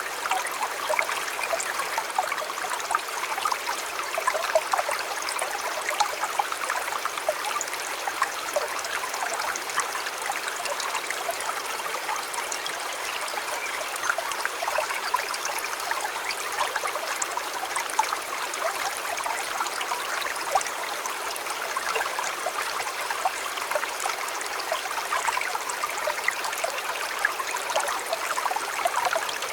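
River water flowing: a steady, even babble full of small splashes and trickles.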